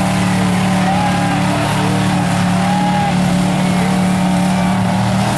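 Mud truck engine running loud and steady, holding one pitch.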